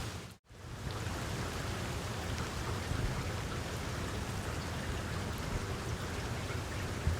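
Wood fire crackling in a fireplace: a steady hiss with small, faint pops. The sound dips out for a moment near the start, then resumes, with a slightly louder pop near the end.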